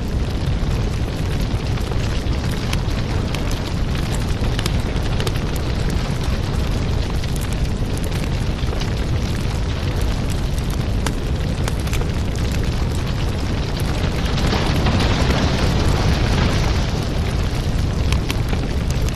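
Wood fire in a fireplace crackling and popping over a steady low rumble of flames, swelling a little louder about three-quarters of the way through.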